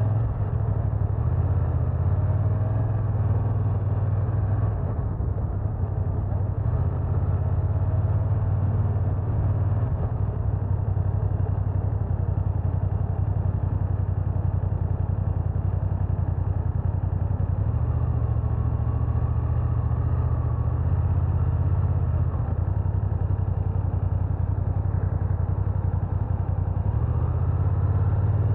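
BMW F900R's parallel-twin engine running, a steady low drone that shifts a few times, around five seconds in, near eighteen seconds and near the end.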